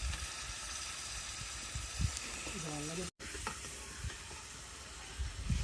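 Food sizzling as it fries in a cooking pan, a steady hiss. A short voice is heard briefly near the middle.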